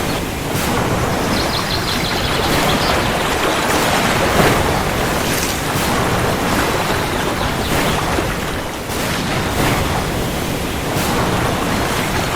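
Heavy rain falling steadily, a dense even hiss with a low rumble beneath and many small patters and splashes.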